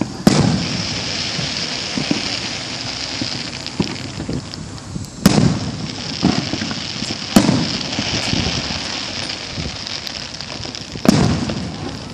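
Fireworks going off: four loud booms a few seconds apart, each trailing off in an echo, with smaller pops and crackles in between.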